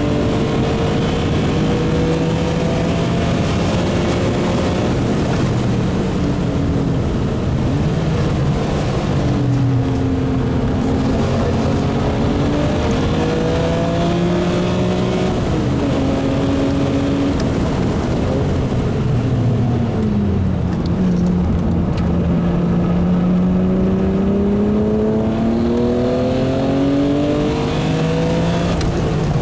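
BMW E36 M3 Evo's 3.2-litre S50B32 straight-six racing engine under hard acceleration on track. Its pitch climbs through the gears, with short drops at each change, and falls away sharply on lift-off and downshifts before climbing again. The longest climb starts from low revs about two-thirds of the way in.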